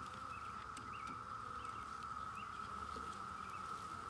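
Insects droning in one steady high tone, with a few faint bird chirps above it.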